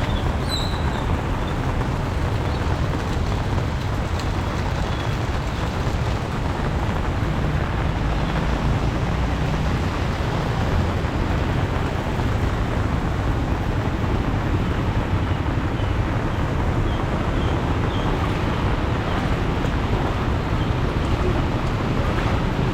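Steady rushing noise of a heavy rainstorm mixed with road traffic, with a deep low rumble under it.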